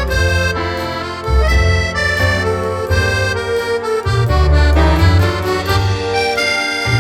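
Accordion music playing a melody of held notes over a bass line that changes about once a second.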